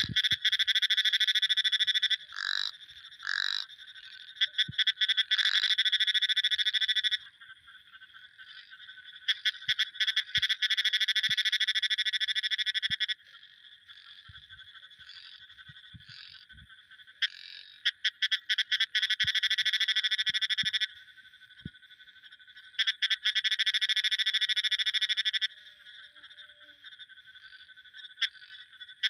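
Frogs calling in long, rapid pulsed trills, each lasting two to five seconds, about five times. A fainter, steady chorus trills on in the gaps between them.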